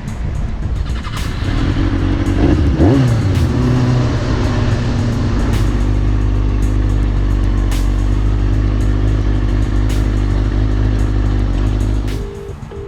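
Motor vehicle engine running steadily, with a pitch sweep about three seconds in like a vehicle going past; the sound drops off abruptly near the end.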